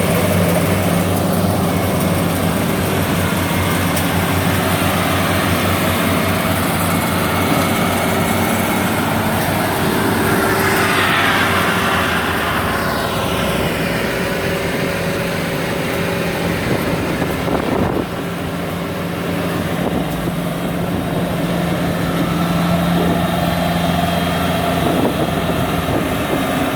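Rice combine harvester's diesel engine running steadily under load while cutting. A broad hissing swell rises and falls about ten to thirteen seconds in, and there is a single sharp knock about eighteen seconds in.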